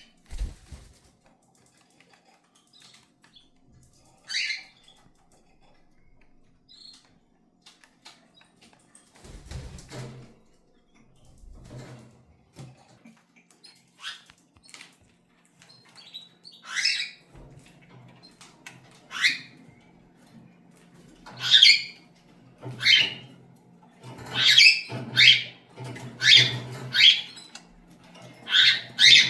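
Cockatiels calling: a lone call early on, then short, loud squawking calls that come more and more often, about one a second near the end. A few dull thuds come in between.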